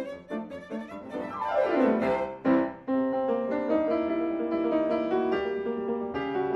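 Piano music: short detached notes, then a quick downward run, then a loud struck chord about two and a half seconds in, followed by held chords.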